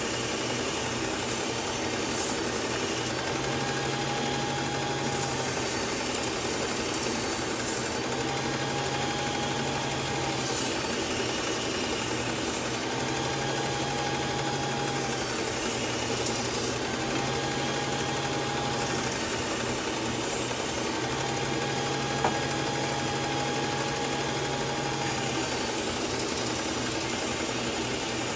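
Belt sharpener running steadily while a kitchen knife is drawn across a finer-grit belt in repeated passes a few seconds apart, each pass adding a low hum and a thin whine. The passes refine the coarse edge and work the burr off.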